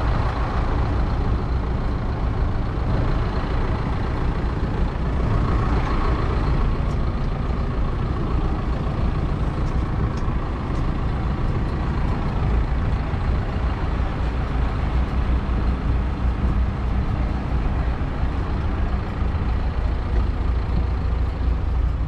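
Fendt 724 Vario tractor's 6.1-litre six-cylinder diesel engine running steadily, a deep, even engine note.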